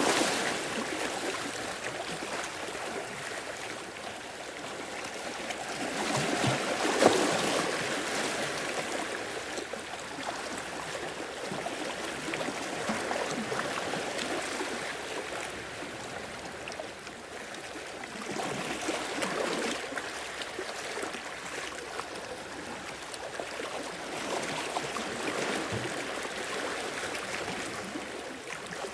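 Sea waves washing in over rocks and draining back with a trickling, gurgling wash, swelling every several seconds. A brief sharp knock about seven seconds in.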